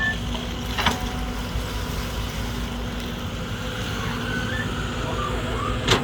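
An engine or motor running steadily with a low hum, with a sharp click about a second in and another near the end, and a few short high chirps.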